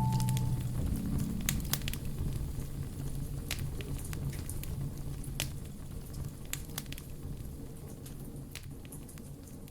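Wood fire burning in a fireplace, crackling with scattered sharp pops over a low, steady rumble, slowly growing quieter.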